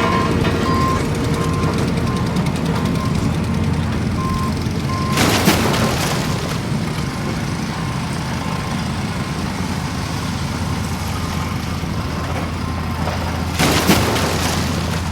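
Heavy vehicle engine running with a steady low rumble, with reversing beeps repeating in the first five seconds. Two short bursts of hiss break in, about five and fourteen seconds in.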